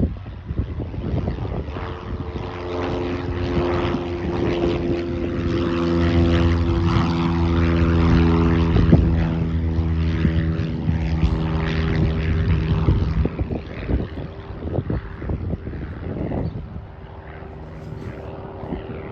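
Propeller airplane passing by. Its engine and propeller drone grows louder to a peak about eight seconds in, then fades away.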